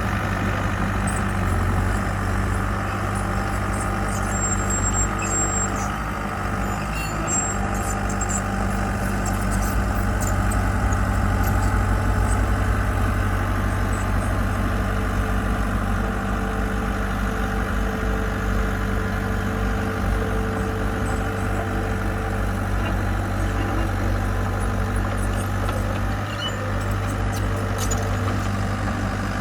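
Diesel engine of heavy construction equipment running steadily at an even pitch.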